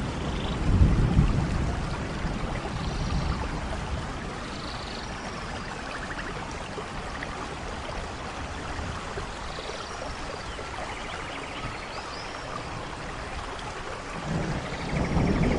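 Steady rainfall with low rolls of thunder, one about a second in and another building near the end. Faint short high chirps sound now and then over the rain.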